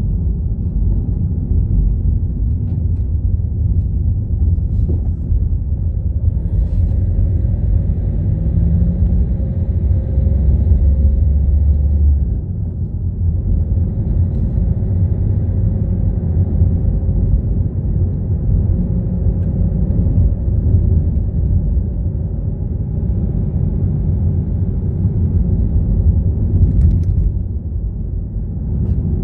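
Car on the move: steady, loud, low engine and road rumble, dropping a little about twelve seconds in.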